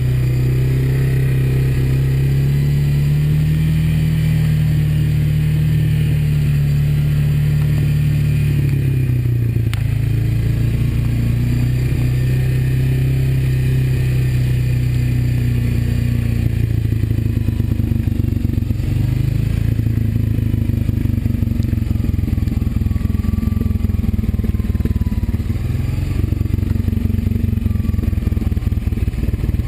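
Honda ATV's single-cylinder four-stroke engine running while riding, its note rising and falling over the first ten seconds, then holding steadier with a continuous rattling clatter.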